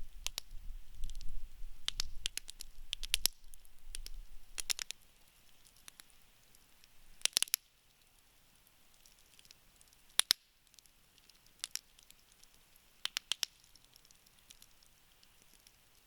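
Wood campfire crackling, with scattered sharp pops from the burning logs; the loudest pops come about seven and ten seconds in. A low rumble under the first few seconds fades out.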